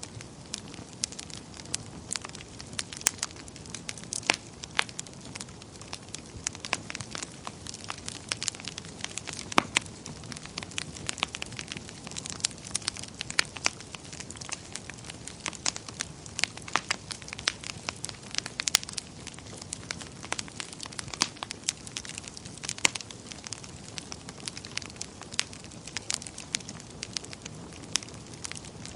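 Wood fire burning in a fireplace, crackling steadily with frequent irregular sharp pops over a low hiss.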